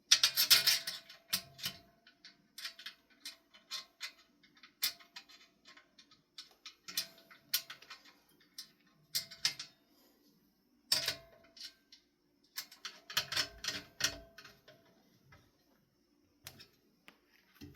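Irregular metal clicks and rattles of handwork on a ceiling fan's motor housing: a screwdriver driving in the last motor housing screw. The clicks come in clusters with short pauses between them.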